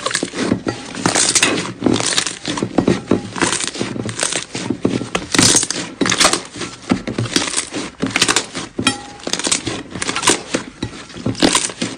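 Slime being squished and pressed by hands: a dense, irregular run of sticky clicks, crackles and pops.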